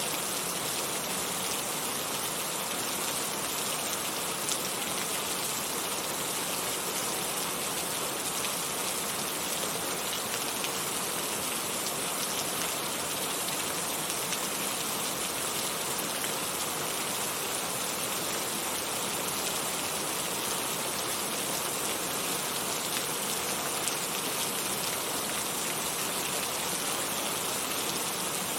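Heavy rain falling steadily, a dense, even hiss of drops with fine patter and no let-up.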